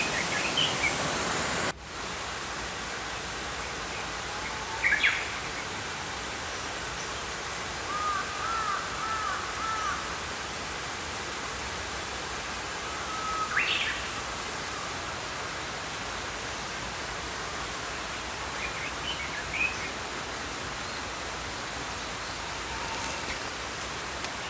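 Steady rush of a small stream with scattered songbird calls: a few chirps, a run of short arched whistled notes about eight to ten seconds in, and single calls here and there. The water sound drops suddenly and stays quieter from about two seconds in.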